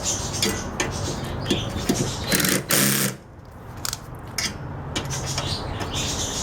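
Cordless drill-driver running in short bursts, taking out the screws that hold a microwave oven's magnetron, with metallic clicks and rattles. It stops for about a second near the middle, then starts again.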